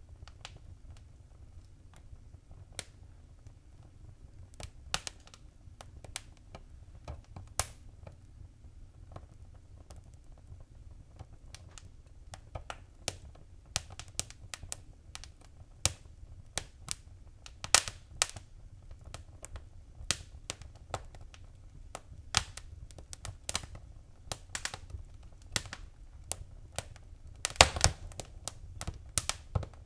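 Fireplace fire crackling: irregular sharp pops and snaps over a low steady rumble, growing busier about halfway through, with a burst of loud pops near the end.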